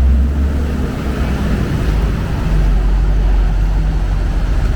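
City street traffic with a vehicle engine running close by, a low steady hum whose pitch drops and settles about two and a half seconds in.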